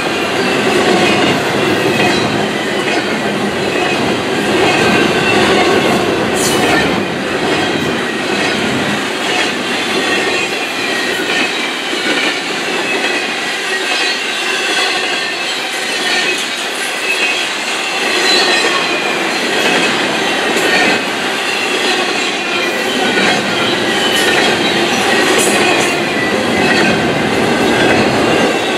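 Double-stack intermodal container well cars rolling past, their steel wheels running steadily on the rails. A wavering, high-pitched wheel squeal runs over the rolling noise, and a few sharp clicks come through.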